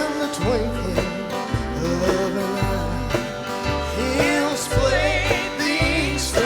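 Country gospel band playing an instrumental break between verses: guitar over a bouncing bass line, with a wavering lead melody on top.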